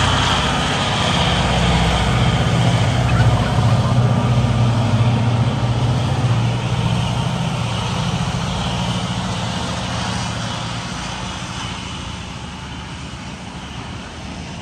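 A train passing, its engine giving a low, steady drone that fades away over the last few seconds as it moves off.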